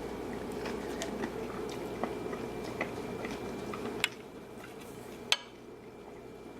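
A person chewing a mouthful of food, with scattered faint ticks and two sharp clicks about four and five seconds in, over a steady low hum.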